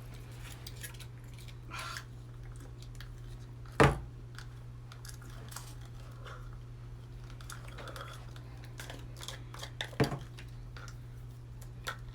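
People eating applesauce in a hurry: faint mouth and spoon sounds over a steady low hum, with two sharp knocks about four and ten seconds in, like a spoon or cup hitting the table.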